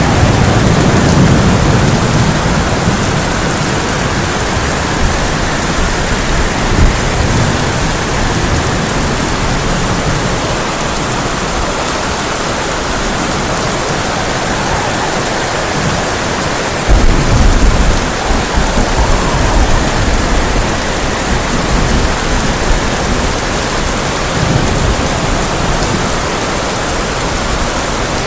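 Heavy rain falling on a tin roof, a steady hiss. Thunder rumbles at the start, and a sudden loud thunderclap comes about two thirds of the way through, rumbling for about two seconds.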